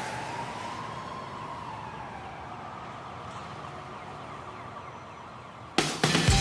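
A single siren-like wail that rises and then slowly falls, over a steady rushing noise. A band's music comes in with a loud strike near the end.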